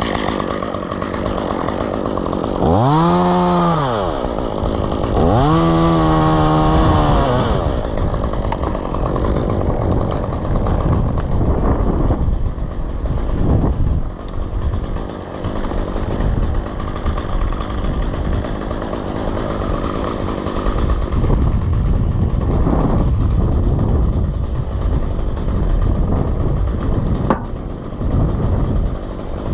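Chainsaw revved twice a few seconds in, each time rising in pitch and falling back, then running on with a rough, noisy sound for the rest of the stretch.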